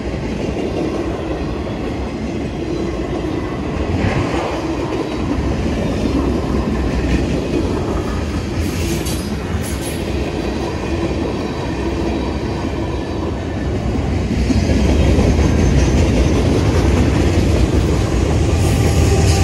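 Freight train cars rolling through a grade crossing, the wheels clicking over rail joints, with a brief high wheel squeal about nine seconds in. From about fourteen seconds the low rumble grows louder as a mid-train diesel locomotive draws near.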